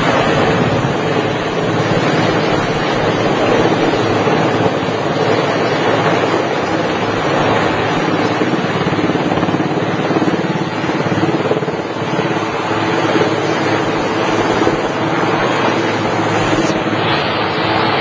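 Helicopter running steadily during a lift, a loud continuous rotor and engine noise.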